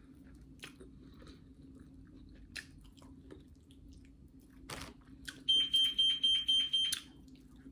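Close chewing and mouth sounds of someone eating fried chicken. Near the end comes a quick run of high electronic beeps, about six a second for roughly a second and a half, and the beeping is the loudest sound.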